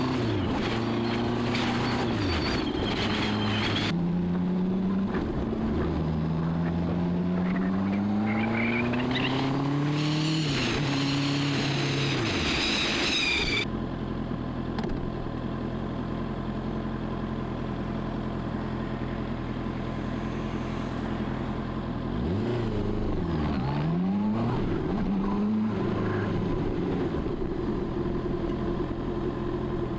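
Honda CB650R's inline-four engine pulling up through the gears, its pitch climbing and dropping back at each shift, with wind noise. Partway through the wind cuts out and the engine settles to a steady low-rev running, with one short rev rise and fall later on.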